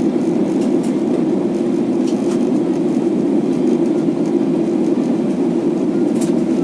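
Steady, loud airliner cabin noise in flight: the constant low rumble of engines and rushing air heard from inside the passenger cabin.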